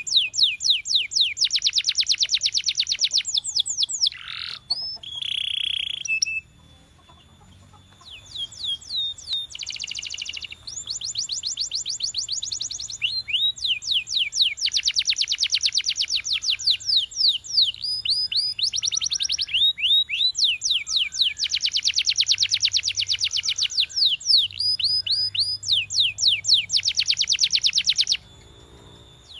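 Canary singing: fast trills of rapidly repeated down-slurred whistled notes, strung together in rolls of a few seconds each, with brief pauses between phrases.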